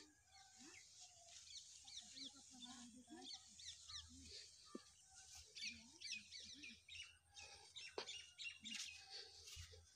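Faint birdsong: many small birds chirping, with short, quick, high notes repeating and overlapping.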